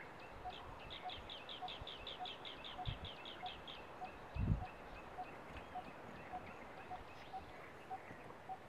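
Wild birds calling: one bird repeats a short single note evenly, a little under twice a second, and another gives a fast run of high chirps in the first few seconds. Two low thumps, the louder one about four and a half seconds in.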